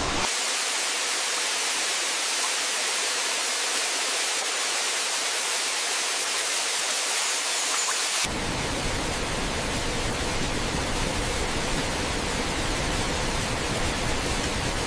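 Waterfall rushing in a steady hiss. About eight seconds in it abruptly becomes a fuller rush with more low rumble.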